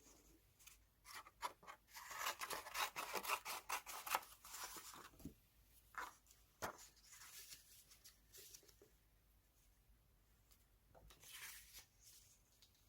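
Scissors cutting magazine paper: a quick run of crisp snips, then a few scattered clicks and a short paper rustle near the end.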